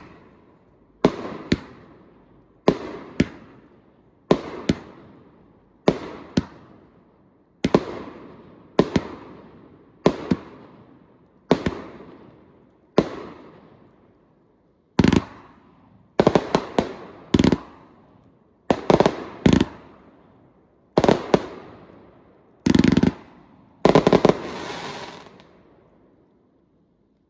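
Fireworks display: a long run of sharp bangs, often in pairs, about one a second, each trailing off in a fading rumble. The bangs come in tighter clusters in the second half and stop just before the end.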